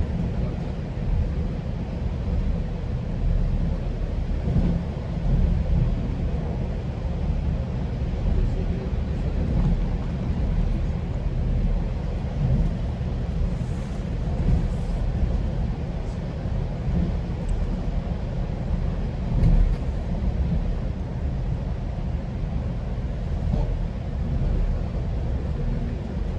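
GO Transit commuter train running along the track between stations, heard from inside a passenger coach: a steady low rumble of wheels on rail with a faint steady hum and a few light clicks.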